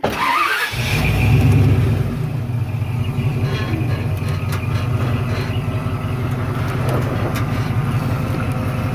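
Off-road vehicle's engine running and revving, louder about a second in and then holding steady, while the vehicle sits high-centred on a rock.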